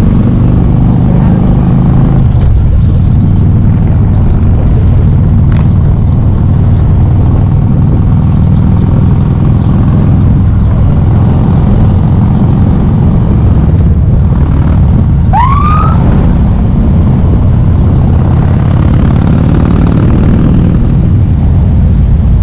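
Harley-Davidson V-twin engine running steadily while the motorcycle is ridden. About two-thirds of the way in, a short tone rises sharply in pitch over it for under a second.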